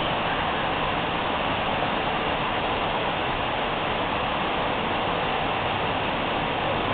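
Steady rushing of running water, an unbroken even hiss with no bird calls standing out.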